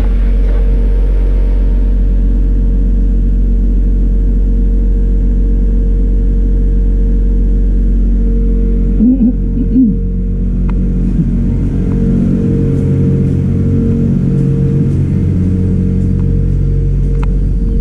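Electric pressure washer running steadily with a deep motor hum as it sprays water onto an air conditioner's condenser coil, with a brief change in the hum about nine seconds in.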